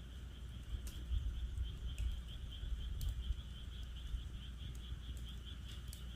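Wood fire crackling with a few sharp pops, over a steady chorus of frogs calling in a rapid, high pulsing trill; a low rumble runs underneath.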